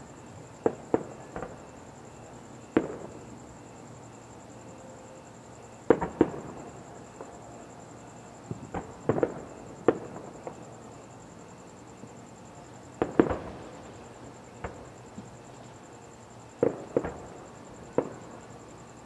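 Aerial fireworks bursting: about sixteen sharp booms at irregular intervals, some in quick pairs and triplets, the loudest around a third of the way in and again about two-thirds through.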